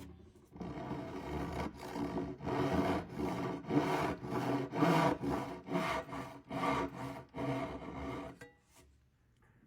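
Wood being rubbed or rasped in repeated back-and-forth strokes, about two a second, stopping near the end.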